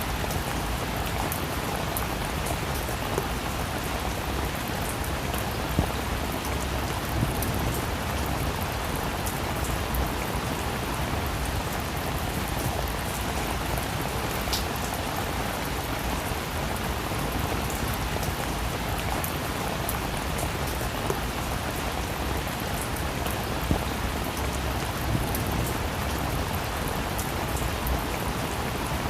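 Steady rain falling, an even hiss with scattered individual drops ticking sharply on a hard surface, a few of them louder.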